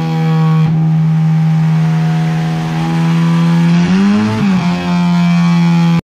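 Honda K24Z7 2.4-litre inline-four running hard at steady high revs on a chassis dyno. About four seconds in, the pitch flares up and drops back as the rear tire spins on the roller: the slick tires are still cold and losing grip.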